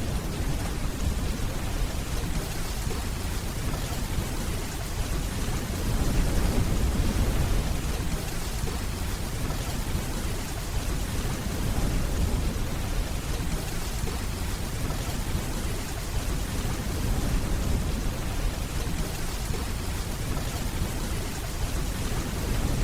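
Steady heavy rainfall with a low, continuous rumble of distant thunder underneath, swelling slightly about six seconds in.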